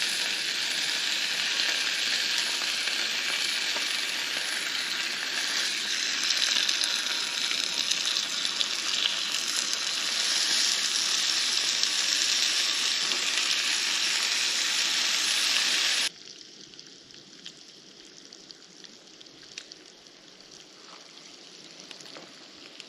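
Bacon and eggs frying in a pan on a camp stove, a steady loud sizzle. About two-thirds of the way through it cuts off suddenly, leaving a much quieter background with faint ticks.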